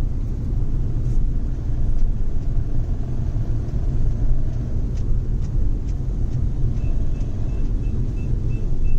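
Steady engine and road rumble inside the cabin of a moving Nissan Magnite, with a few faint clicks. Near the end a short high beep repeats about three times a second.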